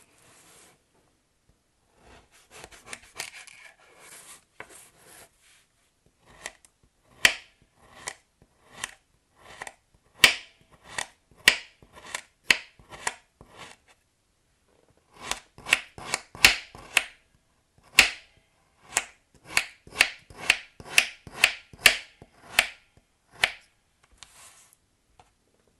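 Soap packaging being handled and unwrapped by hand: soft rustling at first, then a long run of sharp crackles and snaps, one or two a second, with a short pause partway through.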